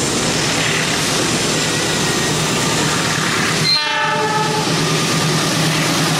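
Diesel locomotive hauling a passenger train, its engine humming under a steady rush of train and track noise. A little under four seconds in, after a sudden break, a short blast of the locomotive's horn.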